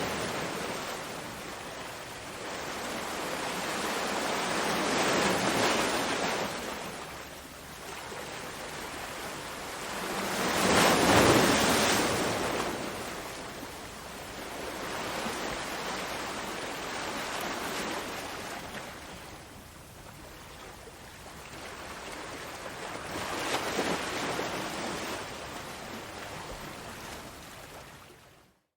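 Ocean waves breaking and washing back, swelling and fading every few seconds, with the biggest wave about a third of the way in. The sound cuts out abruptly for a moment at the very end.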